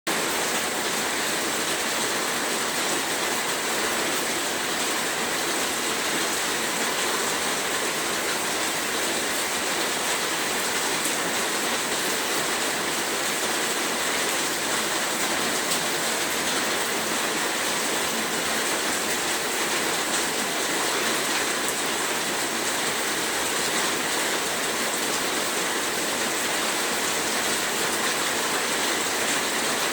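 Heavy rain falling steadily, an even dense hiss with no breaks or distinct drops standing out.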